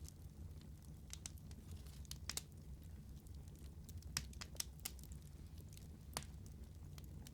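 Wood fire burning with a steady low rumble, and a series of sharp crackles and pops scattered through it, several louder pops in the middle and one near the end.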